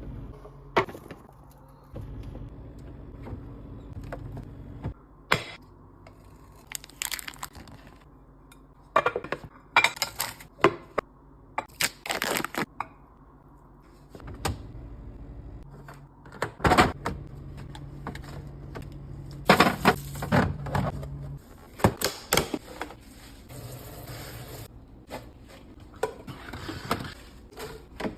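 Food packaging and containers being handled and set down during a fridge restock: irregular clicks, knocks, clatters and plastic crinkling in clusters, over a low steady hum.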